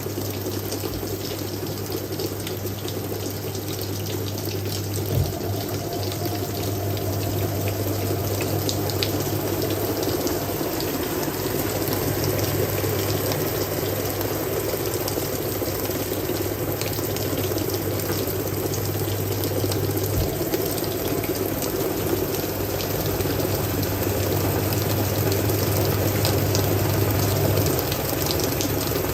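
Hoover 1400 top-loader washing machine running with water rushing in the tub over a steady motor hum. The hum stops near the end while the water carries on, and a light knock sounds twice.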